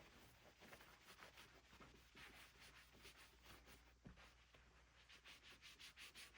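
Faint, quick scratching and rubbing of hands and tools working on an electric baritone guitar during string removal and preparation.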